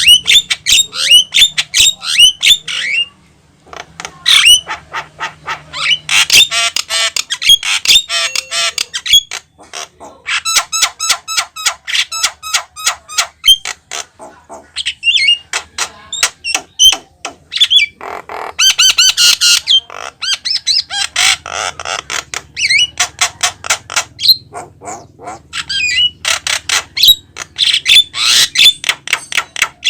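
Javan myna singing at length: rapid harsh chattering, rattling note series and sharp whistled notes in bursts, broken by short pauses.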